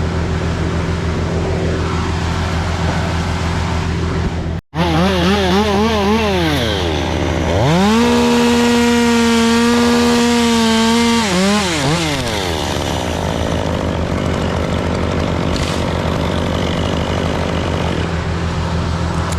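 Chainsaw revved in quick blips, then held at full throttle for about three seconds, as when cutting through a section, before dropping back. A steady lower engine drone runs underneath.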